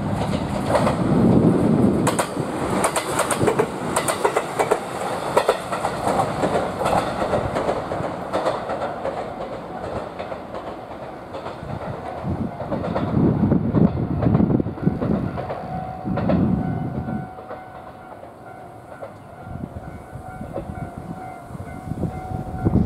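A JR East GV-E400 diesel-electric railcar passing close, its wheels clattering rapidly over the rail joints under the steady noise of the train. The clatter is loudest over the first several seconds and then dies down as the train moves away.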